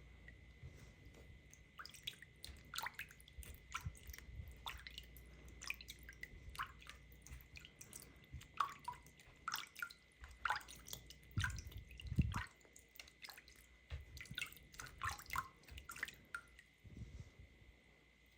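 Hands handling a plush toy and its packaging: faint, irregular small clicks and crinkles, with a few dull knocks about two-thirds of the way through.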